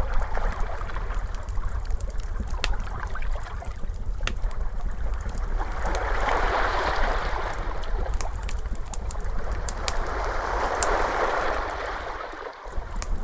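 Wood fire crackling with scattered sharp pops over ocean waves washing in, two waves swelling about six and ten seconds in, with a low steady rumble beneath.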